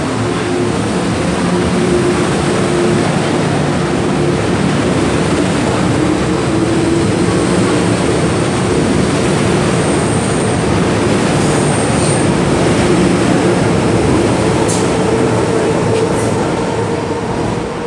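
MTR M-train electric metro train running, heard from on board: a steady rumble of wheels and running gear with a faint motor whine, and a couple of brief clicks near the end.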